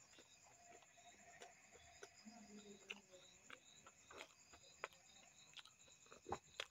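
Faint mouth and chewing sounds of a person eating a soft bread egg sandwich: a scattering of soft clicks and ticks, with a few louder smacks near the end.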